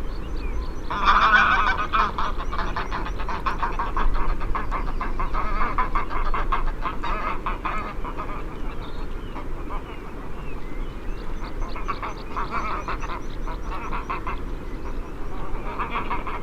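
A flock of greylag geese honking and cackling, many birds calling over each other in rapid runs of notes. The calling is densest in the first half and comes in separate bouts after that.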